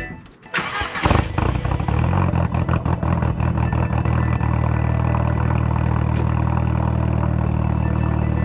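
Turbocharged 8-valve four-cylinder engine of a MK4 VW Jetta wagon catching about a second in, flaring briefly, then settling into a steady idle. The idle has a slightly choppy beat from its wide-lobe turbo cam.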